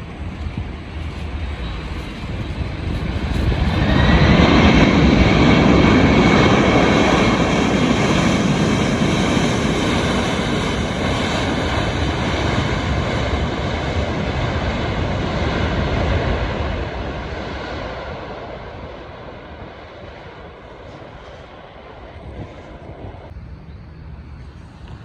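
Jet airliner passing on its arrival at the airport: the engine noise swells over a few seconds, with a high whine that rises briefly as it comes loudest, then fades away slowly over about ten seconds.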